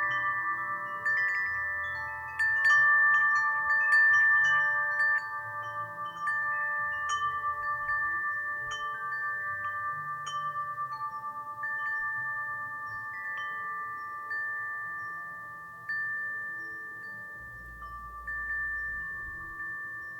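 Wind chimes ringing in the breeze, clear metallic tones struck irregularly and left to ring and fade, with fresh clusters of strikes a few times, notably about 2.5 and 4 seconds in and again near 16 and 18 seconds.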